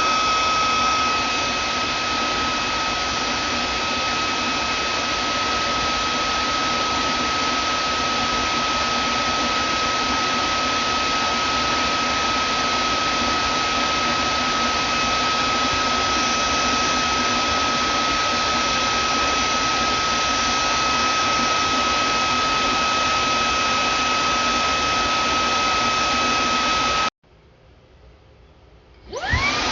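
Vacuum cleaner motor running steadily with a high whine over a rushing airflow. Near the end it cuts off suddenly, then restarts about two seconds later with a rising whine as the motor spins back up.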